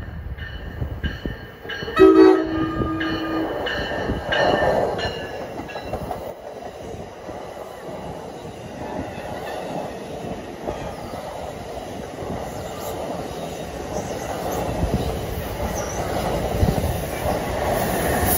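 NJ Transit commuter train horn sounding a loud, held chord about two seconds in, with another short loud peak a couple of seconds later. The train of multilevel coaches then passes at speed, its wheels rumbling and clattering steadily over the rails.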